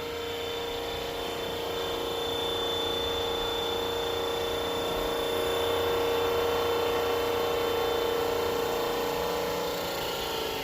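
Scale RC helicopter hovering close with a steady whine of motor and rotor blades. Near the end the whine gets quieter and its pitch slides down slightly as it comes in for a very gentle landing.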